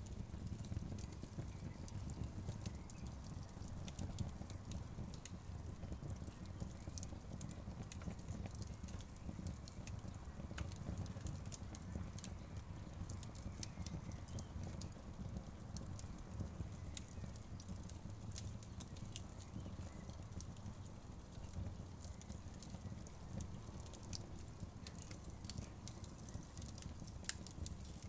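Wood fire burning, with a steady low rumble of the flames and many small sharp crackles and pops from the logs at irregular intervals.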